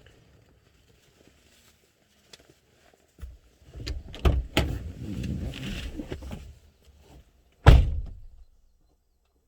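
Several seconds of knocking and handling clatter, then one loud thump near the end, like a door being shut.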